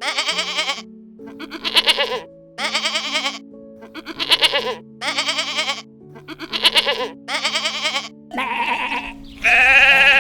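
Goat bleating over and over, about nine quavering calls of under a second each, mostly in pairs, the last two fuller and louder. Light background music with held notes plays underneath.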